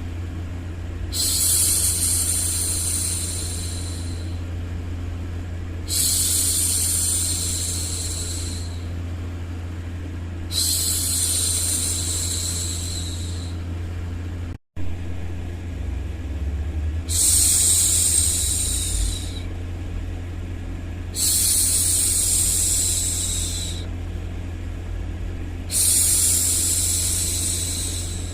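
A woman's voice making long, airy 'shhh' hushing sounds, six in a row about every four and a half seconds, over steady low white noise. The sound cuts out for an instant about halfway through, likely where the loop was joined.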